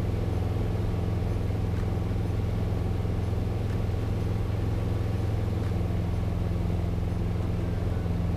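Piper PA-28 Cherokee 180's four-cylinder Lycoming O-360 engine and propeller droning steadily at climb power, heard inside the cabin.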